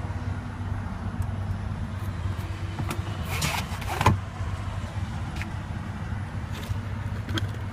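Trim parts in an SUV's rear cargo area being handled: a short rustle, then a sharp clunk about four seconds in and a few lighter ticks, over a steady low hum.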